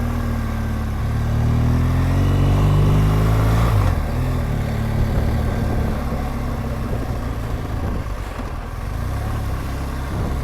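BMW R1200GSA boxer-twin motorcycle engine under way, accelerating with a rising note for the first few seconds, then dropping back about four seconds in and running on more steadily, with wind noise.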